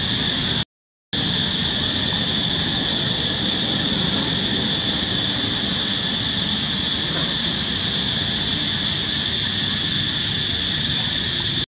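Steady, unbroken hiss at a constant level, strongest high up, cut off to dead silence for a split second about a second in.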